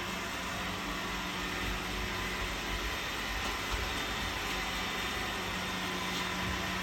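Steady whirr and hiss of a household fan-driven appliance running, with a constant low electric hum.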